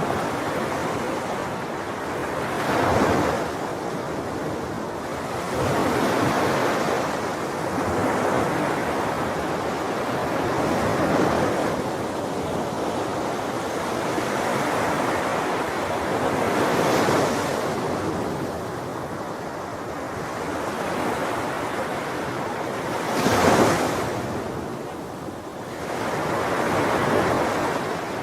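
Ocean waves breaking on a shore, a continuous wash of surf that swells every few seconds as each wave breaks, with the strongest breaks about three seconds in and near the end.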